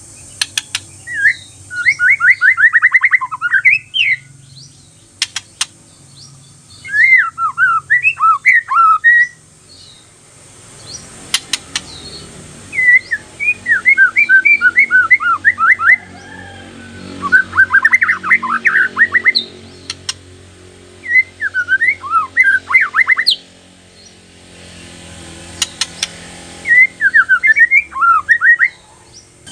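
White-rumped shama (murai batu) singing a bait song: about seven bursts of rapid, sweeping whistled notes, each a second or three long, with short pauses between them and a few sharp clicks in the gaps.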